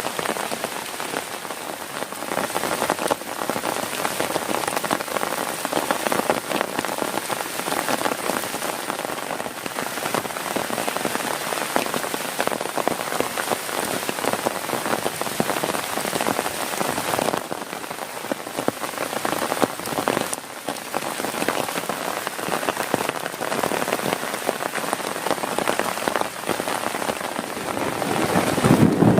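Heavy rain falling steadily on a tent, heard from inside, a dense even patter. A low rumble of thunder starts right at the end.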